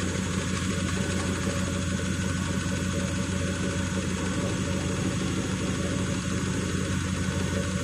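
Atlant 50S102 washing machine's drum spinning at speed in the spin cycle: a steady, even hum that holds without change. The machine is shaking hard enough to walk out of place and has to be held down.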